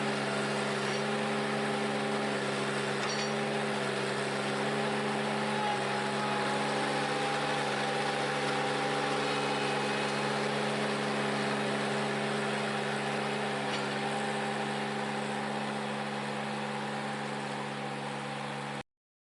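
Ventrac 4520Z compact tractor's engine running at a steady, unchanging speed with an even hum and no grinding impacts; the sound cuts off suddenly near the end.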